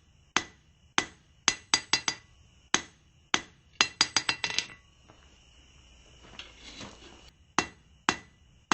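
Hand hammer blows on hot steel bar over an anvil, each strike ringing, drawing out a taper. The blows come at an irregular pace with a quick flurry about four seconds in, then a pause of a couple of seconds with a soft hiss before two more blows near the end.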